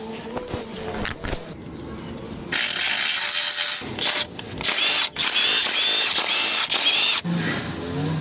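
A handheld power tool, a cordless drill or power ratchet, running in several loud bursts with short stops in between.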